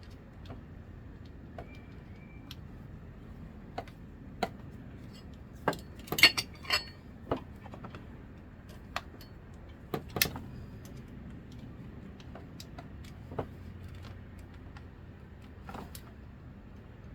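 Scattered metallic clicks and clinks of hand tools working on a hose clamp on the fuel line, as the clamp is being tightened. The loudest run of clinks comes about six seconds in, and another about ten seconds in.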